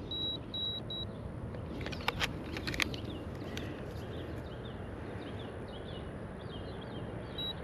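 Digital fish scale beeping: four short high beeps in the first second as it is cleared, then one more near the end. Small birds chirp through the middle, and a few clicks come about two seconds in.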